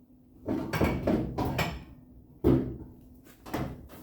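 Knocks and clatter of hard objects being handled and set down, with a sharp knock a little past halfway and another about a second later.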